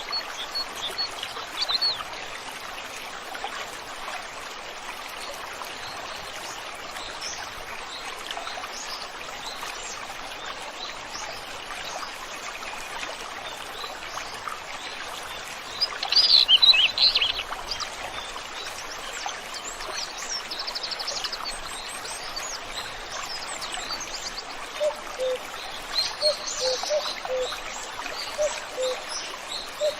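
Stream flowing steadily with birds calling and singing over it: a loud burst of song about halfway through, a fast trill soon after, and a run of short, lower notes near the end.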